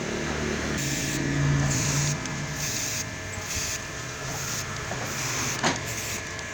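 A small electric motor running, with a hiss that swells and drops off about once or twice a second, and one sharp click near the end.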